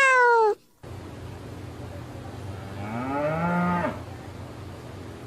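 A cat's meow ends about half a second in; after a cut, a cow moos once about three seconds in, a call of about a second, against a steady low hum.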